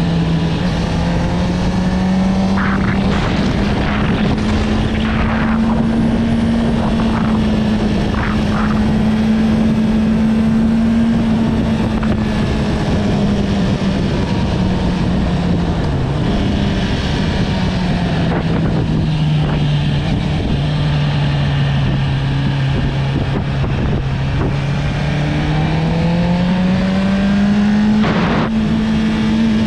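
Honda CB650R's inline-four engine through an Akrapovic exhaust, running steadily under way. Its note holds for the first half, drops lower about halfway through as the revs fall, and climbs back up near the end.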